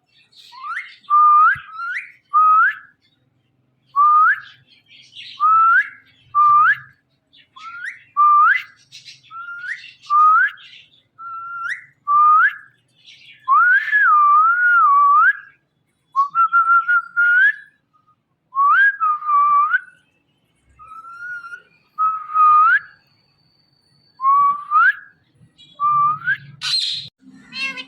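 Indian ringneck parrot whistling: a long run of short rising whistles, one or two a second, with a few longer wavering notes midway and a brief harsher sound near the end.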